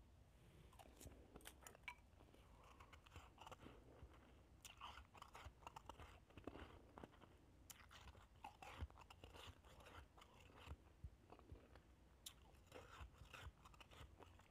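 Faint chewing of shaved ice: soft, irregular crunches, several a second at times, with gaps between.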